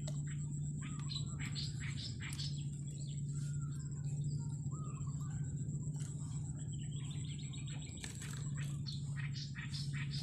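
Small birds chirping and calling again and again in short notes, over a steady low hum and a thin, steady high-pitched tone.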